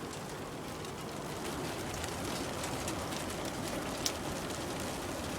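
Steady rain and wind noise from a tornado-producing storm, with scattered faint drop ticks and one sharper tick about four seconds in.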